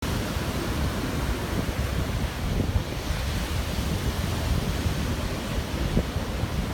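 Surf washing on the beach, with wind buffeting the microphone: a steady rushing noise.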